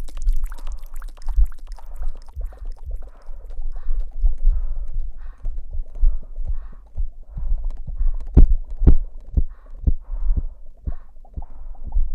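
Close-miked ASMR trigger sounds: soft, irregular thumps and rubbing against the microphone, several to a second, with a few sharper taps about 8 to 9 seconds in.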